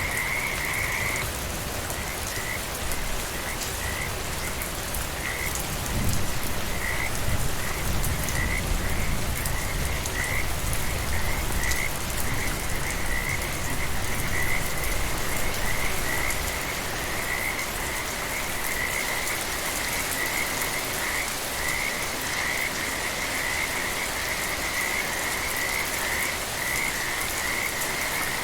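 Steady rain with a chorus of frogs calling, a high pulsing call repeating about twice a second. A low rumble swells about six seconds in and fades some ten seconds later.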